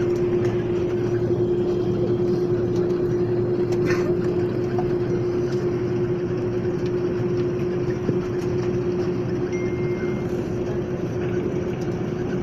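Airliner cabin noise on the ground after landing: the steady rush and rumble of the jet engines and airflow, with a constant mid-pitched hum running through it.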